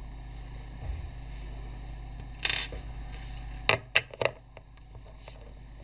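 Workshop handling sounds: a short scrape about halfway through, then three sharp knocks in quick succession, over a low steady hum that stops at the first knock.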